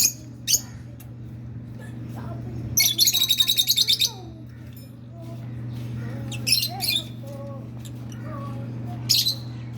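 Rosy-faced lovebirds chirping: single sharp, high chirps, and about three seconds in a rapid run of around nine chirps a second lasting just over a second. A steady low hum runs underneath.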